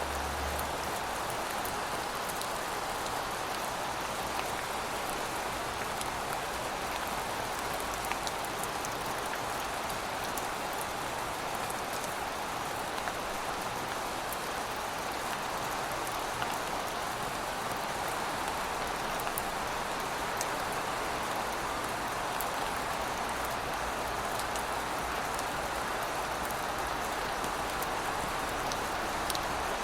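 Steady rain falling, a continuous even hiss with scattered drops ticking on a surface.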